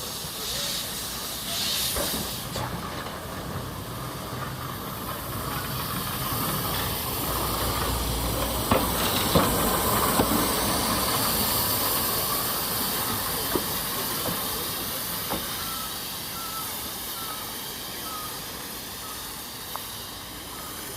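Steam hissing from the 1874 Beyer, Peacock tank locomotive No. 4 "Loch". The hiss swells to its loudest about halfway through, with a few sharp clicks near the peak, then fades.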